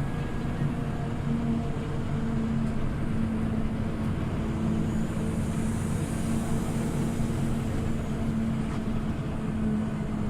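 Scania OmniLink CL94UB city bus engine running at a steady pitch, with the low hum and rumble of the bus.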